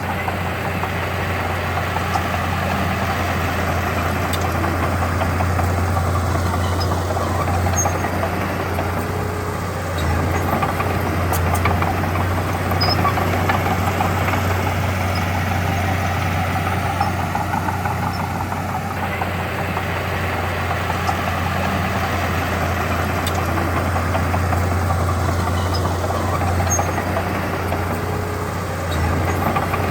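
Heavy diesel earthmoving machine engine running steadily with a deep hum, its level dipping and swelling a few times.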